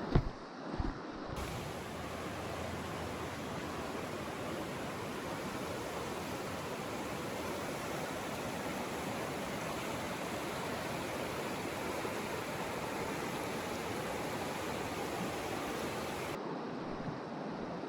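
Steady rush of flowing creek water, with a few short knocks in the first second.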